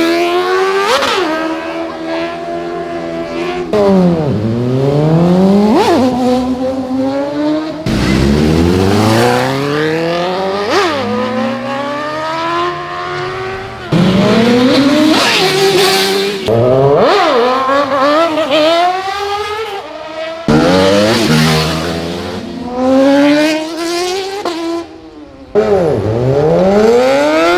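High-revving superbike engines in a string of short clips. They rev up through the gears and scream past at speed, each pass ending in a sharp drop in pitch as the bike goes by. The sound cuts abruptly from one bike to the next several times.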